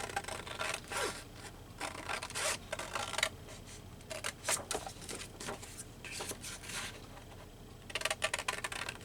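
Paper being handled at a craft table: short, irregular rustling and scraping strokes, with a busier stretch near the end.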